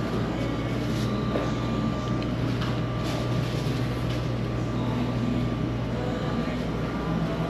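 Restaurant background noise: a steady low mechanical hum with a faint high whine above it, with a few faint clicks.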